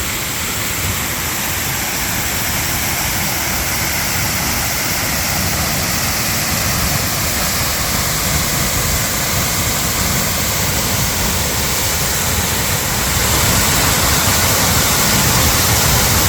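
Steady rush of flowing water, which gets a little louder about thirteen seconds in.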